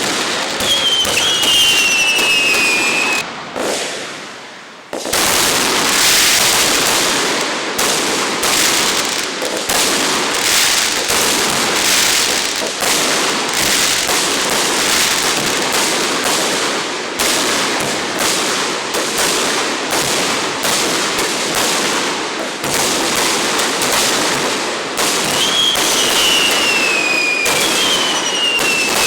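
Fireworks display: a dense, continuous crackle of bursting shells, with falling whistles near the start and again near the end, and a brief lull about four seconds in.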